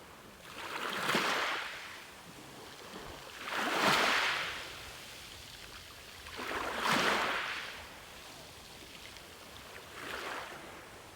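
Ocean waves breaking and washing in, four surges of rushing water about three seconds apart, the last one weaker, over a steady hiss of surf.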